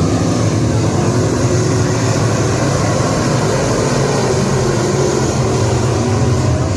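Race car engines running steadily on a dirt track, a loud, continuous drone.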